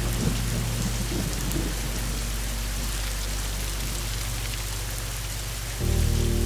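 Steady rain falling, with a low rumble of thunder in the first two seconds. Under it runs a low steady drone that swells to a louder, fuller chord near the end.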